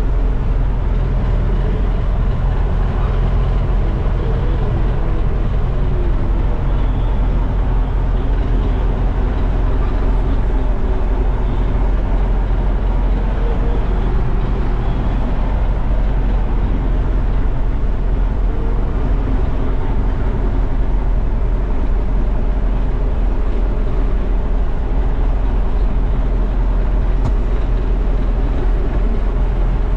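Heavy farm machinery engine running steadily under load, an even, low-pitched drone that does not change pace.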